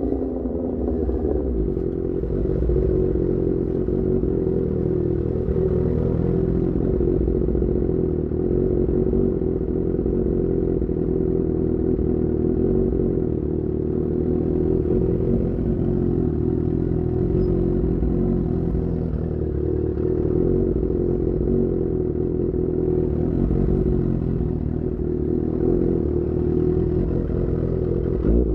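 Sport motorcycle engine through an Austin Racing GP1R aftermarket exhaust, running at fairly steady cruising revs with only small shifts in pitch.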